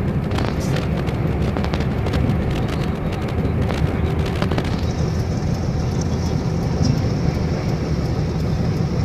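Car driving through a sandstorm, heard from inside the cabin: a steady rumble of engine, road and wind. Sharp ticks scatter through the first half, and a steady high whine comes in about halfway through.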